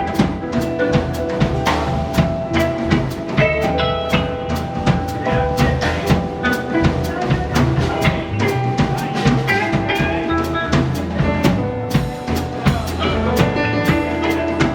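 Live rock band playing an instrumental passage, the drum kit prominent with steady, dense beats under sustained guitar and bass notes.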